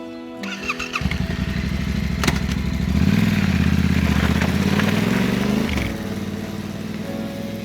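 Yamaha Ténéré 700's parallel-twin engine starting about a second in, then revved and held higher for about three seconds before dropping back to idle.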